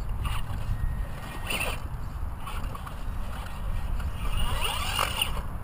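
Radio-controlled Traxxas Stampede truck driving through mud and slush some way off, its motor rising and falling faintly near the end, over a steady low rumble of wind and wet weather on the microphone.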